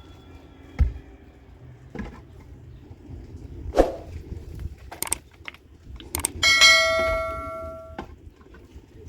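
A few scattered knocks, then a metal object struck once about six seconds in, ringing with a bell-like tone that dies away over about a second and a half.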